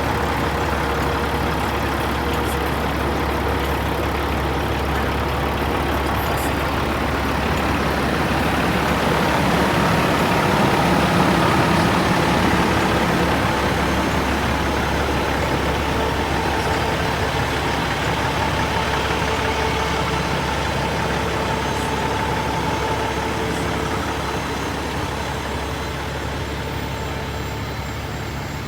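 Heavy truck engine running steadily, growing louder about ten seconds in and easing off toward the end.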